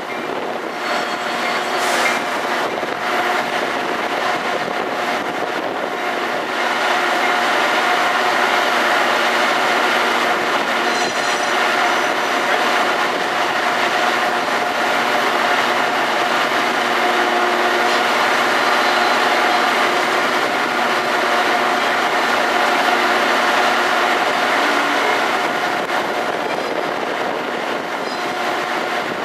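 Metra commuter train running: a continuous rail noise with a steady whine in it, growing a little louder about seven seconds in.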